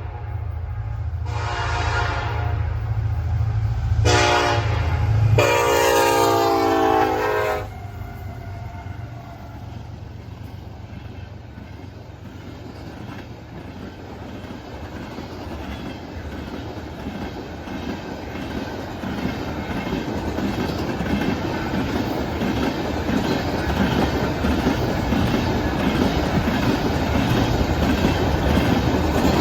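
Diesel freight locomotive sounding its horn three times at a grade crossing, the third blast the longest, over the low rumble of its engine as it passes. Then the wheels of the CSX tank cars clack rhythmically over the rail joints, growing louder.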